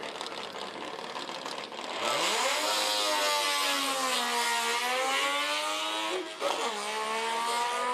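Saab 96 engine revved hard as the car launches off the drag-strip start line. The pitch rises steeply about two seconds in, sags briefly and climbs again, then drops and recovers about six seconds in at a gear change.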